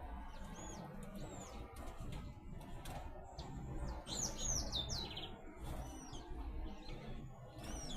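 Small birds chirping: short, high chirps that arch up and down, about one a second, with a quick run of several chirps about four seconds in, over a low rumble.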